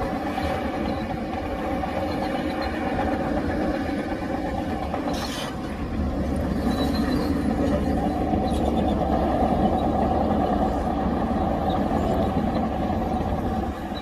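Heavy diesel engines of earthmoving machinery running steadily under work, with a low rumble and a steady engine hum. A brief clank comes about five seconds in, and the engines grow louder from about six seconds in.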